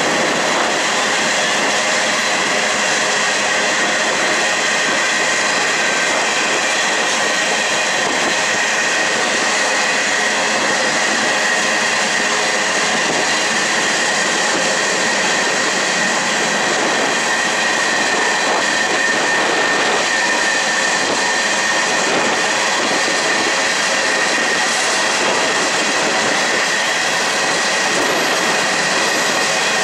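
Loaded freight train of covered hoppers rolling past on a curve: a steady rumble of steel wheels on rail, with a continuous high wheel squeal that grows stronger near the end.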